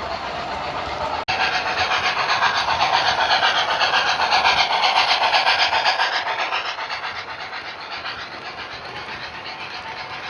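O scale model train rolling past on the track, a fast, even rhythmic running noise that builds to a peak about four seconds in and then fades as it moves away.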